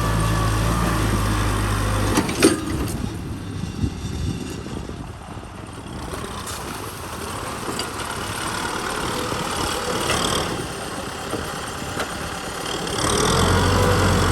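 Kubota M6040 SU tractor's diesel engine running, its steady low note dropping away about two seconds in and coming back louder near the end.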